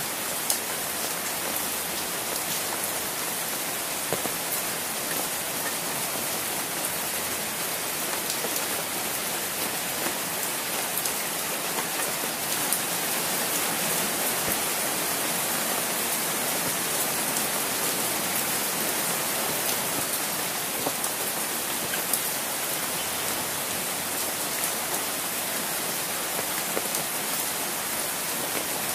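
Steady rain pattering on an open umbrella overhead: an even hiss with many single drops ticking sharply close by.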